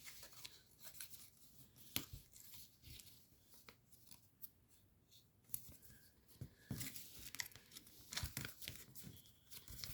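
Origami paper being folded and creased by hand: faint, scattered crinkles and taps, busier in the second half.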